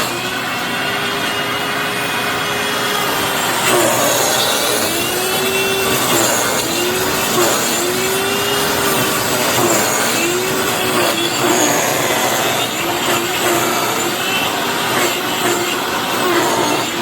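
Hoover FloorMate Deluxe hard floor cleaner's motor running with a loud grinding noise and a squeal that rises and falls over and over, sounding like it's eating itself: the motor bearings have died.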